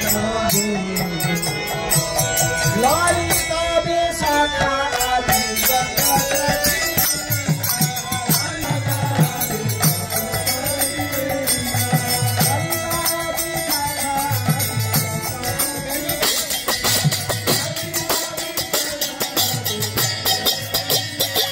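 Devotional kirtan music: a voice chanting a melody over drum strokes and small hand cymbals, the percussion getting busier about two-thirds of the way through.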